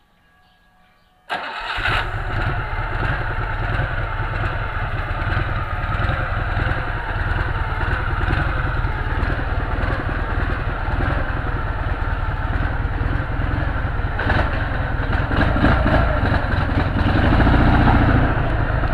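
Dnepr motorcycle's flat-twin engine comes in suddenly about a second in, as if catching on start, then runs steadily, getting slightly louder near the end.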